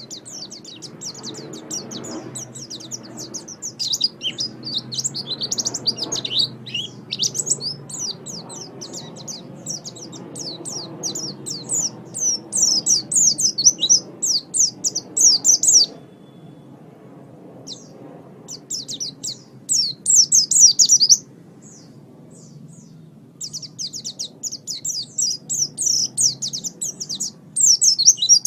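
White-eye (pleci) singing a fast, high twittering song in long runs, broken by two short pauses in the second half, over a faint low background hum.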